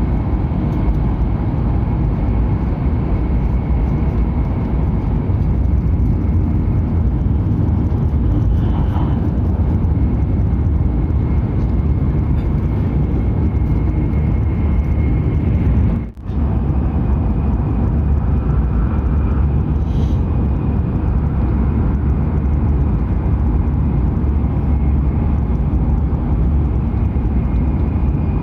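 E7/W7-series Hokuriku Shinkansen running at speed: a steady, loud, deep rumble of running noise, with one sudden brief break about halfway through.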